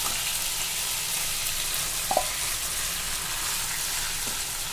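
Prawns in an oily spice paste sizzling steadily in a non-stick kadai as boiled ol kochu stalks are tipped in and stirred with a wooden spatula. A single light knock about two seconds in.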